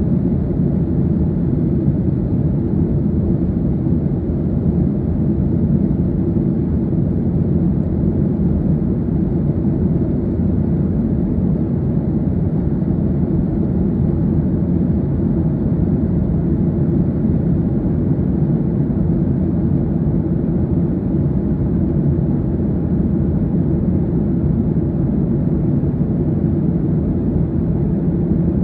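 Airliner cabin in flight: a steady low drone of jet engines and rushing air.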